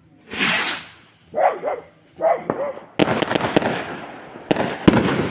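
Fireworks going off: a loud whoosh, then from about three seconds in a run of sharp bangs and crackles, with two louder bangs near the end. Two short pitched cries come in between.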